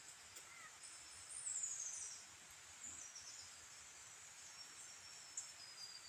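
Faint high-pitched bird calls: a quick falling series of whistles about a second and a half in, short notes around three seconds and a long thin whistle near the end. A steady high hiss runs under them.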